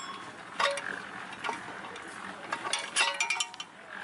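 Metal objects clinking and clanking: a few sharp strikes with a short metallic ring, with a quick run of clinks about three seconds in.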